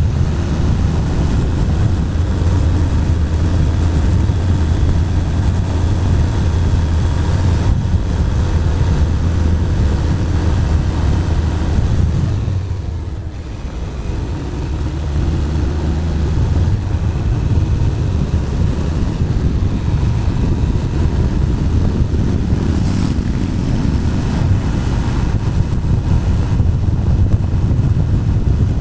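Wind rumbling over a helmet-mounted camera on a moving Bajaj Pulsar 220 motorcycle, with the bike's single-cylinder engine running underneath. The rumble eases briefly about halfway through.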